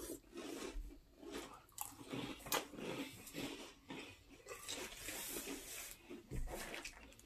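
Two people chewing mouthfuls of fruity ring-shaped cereal in milk, with soft, irregular crunching and a single sharp click about two and a half seconds in.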